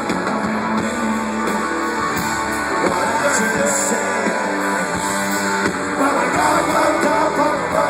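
Live rock band playing, with guitars to the fore and a singing voice coming in about six seconds in.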